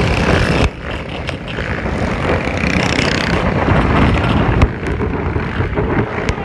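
Motorcycle running with heavy wind noise on the microphone; the sound drops sharply under a second in, then builds again.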